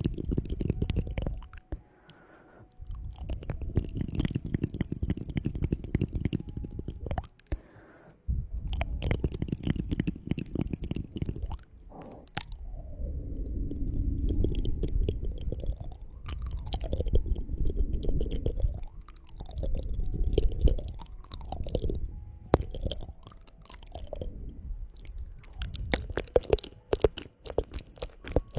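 Close-miked ASMR trigger sounds: dense wet crackling and clicking over a low rumble from contact with the microphone, dropping out briefly twice.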